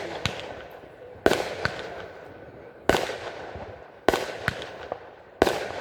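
Display fireworks bursting overhead: four sharp bangs about a second and a half apart, each trailing off with a fading rumble and a scatter of small crackles.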